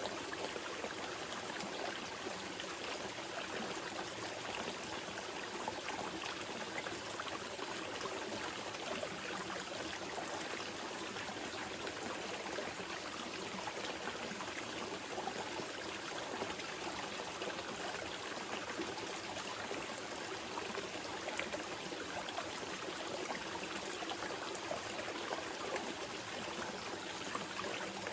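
A small river flowing steadily, with water burbling and splashing over stones.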